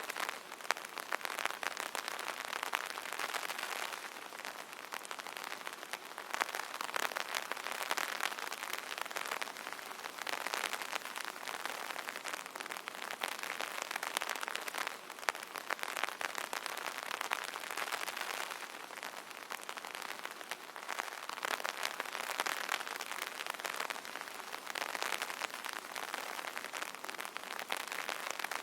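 Rain pattering on an umbrella: dense, crackling drops that swell and ease every few seconds.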